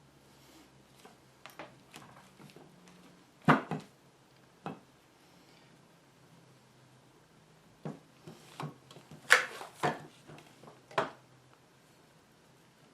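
Irregular knocks and clatter of hard objects being handled and set down, about a dozen sharp knocks in two clusters, the loudest a little past a third of the way in and again later, over a faint steady hum.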